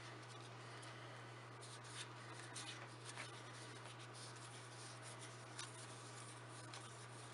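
Faint rustling and soft clicks of Magic: The Gathering cards being slid and flipped through by hand, over a steady low hum.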